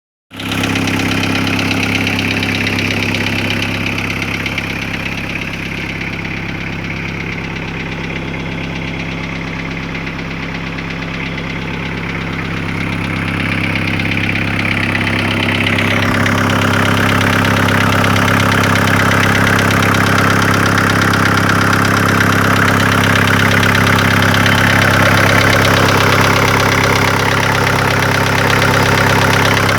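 VW T4 1.9 TD (ABL) four-cylinder turbodiesel idling steadily with a knock in the engine. The knock has remained after new valves and a replacement cylinder head, and a workshop put it down to the hydraulic lifters or the injectors. The sound grows louder and harsher about halfway through.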